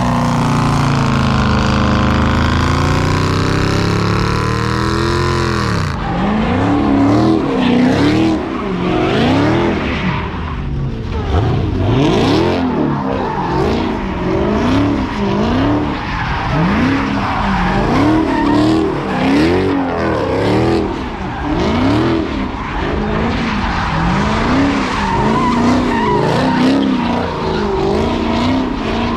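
Car engine revving up and down over and over, about once a second, with tires skidding and squealing. Before that, a loud steady rush of engine and tire noise cuts off about six seconds in.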